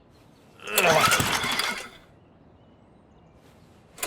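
Lawn mower's starter cord pulled once, a rasping whirr of a bit over a second that does not start the engine. Right at the end the mower engine catches and starts running with a rapid pulse.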